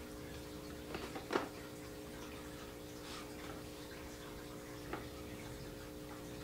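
A few light knocks and clicks from wooden beehive parts being handled during assembly, the loudest about a second and a half in and another near the end, over a steady low hum.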